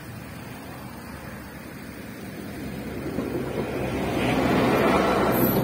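A yellow rail vehicle approaching and passing over a level crossing, its engine and wheel noise growing steadily louder from about halfway through and peaking near the end, with a brief high squeal just before the end.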